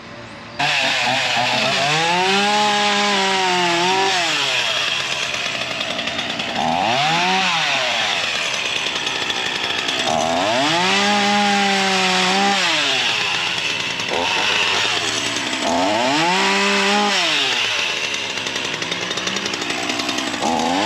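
Ryobi 37cc two-stroke gas chainsaw running, coming in suddenly about half a second in. It is revved up and down about five times, its pitch rising and falling with each rev.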